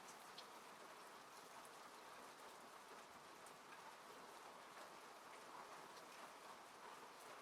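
Faint steady rain falling on a car, heard from inside the cabin, with scattered individual drops ticking against it.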